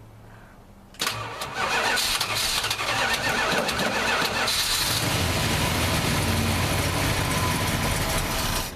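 1968 Plymouth Fury's 383 big-block V8 cranked on the starter about a second in, catching after a few seconds and running loud and steady. The sound drops away abruptly near the end.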